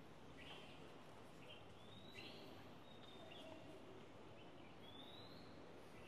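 Faint bird calls over a near-silent background: short rising chirps every couple of seconds.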